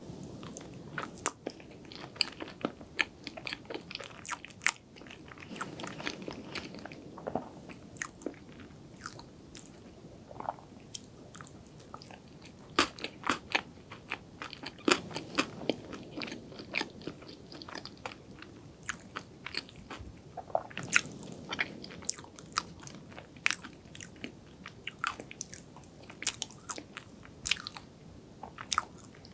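Close-miked chewing of soft, dense chocolate cream-cheese cake: wet, sticky mouth sounds with many sharp, irregular clicks and smacks.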